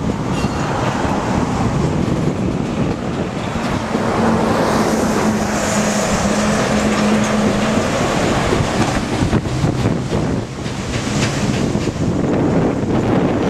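Rail maintenance train rolling past, heard under heavy wind noise on the microphone. A steady engine hum runs from about four to eight seconds in as a dump truck crosses the overpass.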